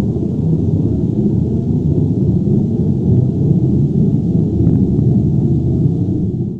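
Earthquake or avalanche rumble sound effect: a loud, steady, deep rumbling with almost all its weight in the low end and only a faint hiss above.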